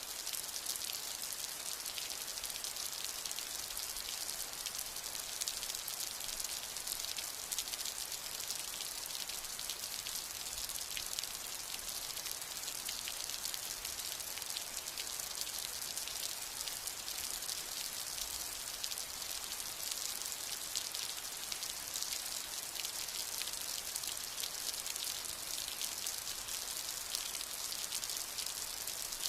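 Steady rain falling, a dense even patter of drops with a bright hiss, without let-up.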